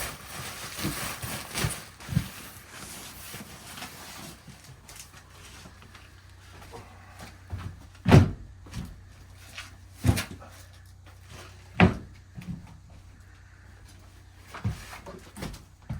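Rustling for the first few seconds, then scattered knocks and thuds as boxes and objects are handled and set down, the three loudest about eight, ten and twelve seconds in.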